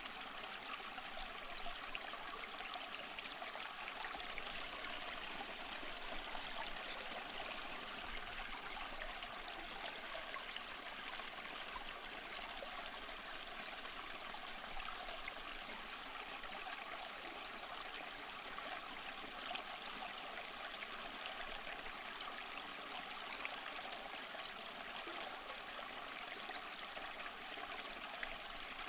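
Waterfall: a steady, unbroken rush of falling water, an even hiss with little low rumble.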